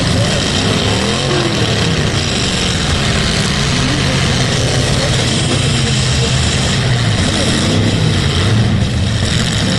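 Several full-size demolition derby cars' engines running at once, revving up and down in a loud, continuous mix.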